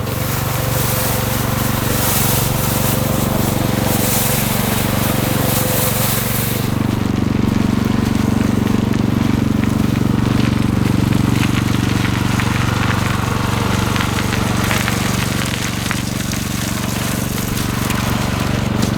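A steady low engine hum on a city street, with a hiss of street noise over it that drops away about seven seconds in.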